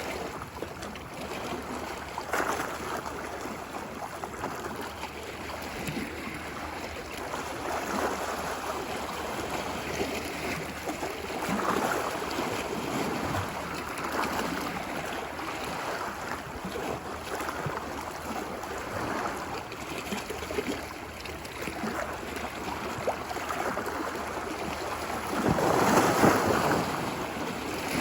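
Ocean waves washing onto a beach, a steady wash of surf with swells every few seconds; the loudest wave breaks near the end.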